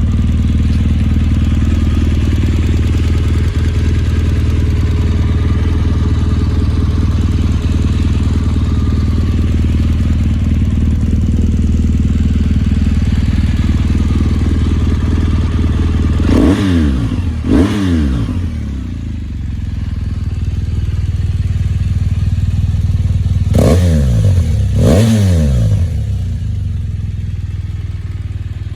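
2014 BMW R1200GS's boxer-twin engine idling steadily through an Akrapovic exhaust. It is blipped twice in quick succession a little past halfway and twice more several seconds later, each rev rising and dropping straight back to idle.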